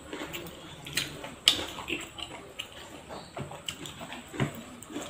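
Wet chewing and lip-smacking of people eating rice and duck curry by hand, with scattered sharp clicks. The loudest click comes about a second and a half in.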